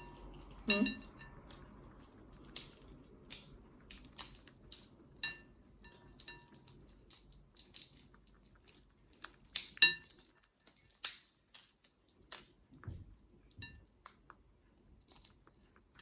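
Green-cheeked conure picking at and cracking a whole walnut with its beak: irregular sharp clicks and cracks of beak on shell, some with a light clink, the loudest about ten seconds in.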